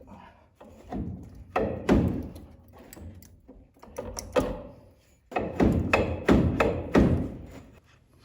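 Repeated knocks and thunks on the steering column of the truck as it is worked to free the steering shaft, a few early and then a quick run of about five sharper knocks. The shaft won't come out because the steering wheel nut is still on.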